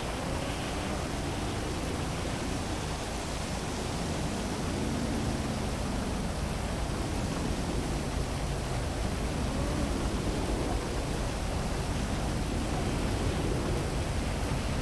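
Heavy rain falling steadily, a dense even hiss with no breaks, over a faint low rumble of the city beneath.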